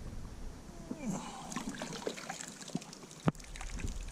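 Shallow creek water trickling and splashing, with scattered small clicks and one sharp knock about three seconds in.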